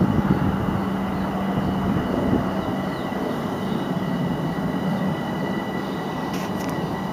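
Metro-North commuter train approaching on the far track: a steady rush of wheels on rail, with two thin high whines held at an even pitch.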